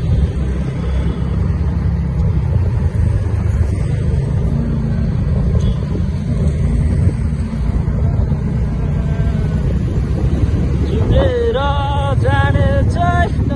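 Motorcycle engine running steadily while riding, with a low rumble and road noise. Near the end there are brief pitched tones.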